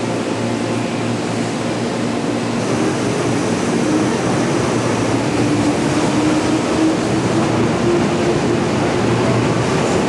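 Steady din of a busy station platform: an electric commuter train running alongside the platform, with the bustle of the crowd.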